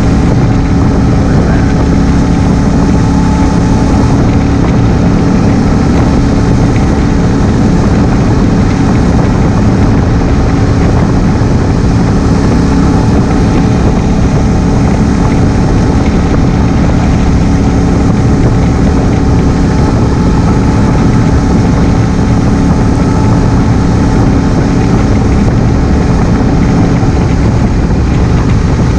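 Honda Africa Twin CRF1000L's parallel-twin engine running at a steady speed while cruising, with wind rushing over the helmet-mounted camera.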